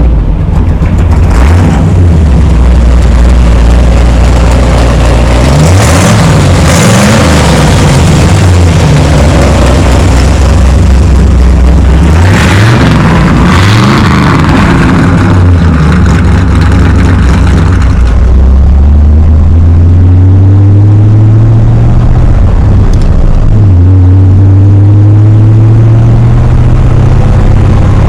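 A 350 cubic-inch V8 with a four-barrel carburettor running and being revved: its pitch swings up and back down sharply twice, then climbs steadily twice with a drop in between.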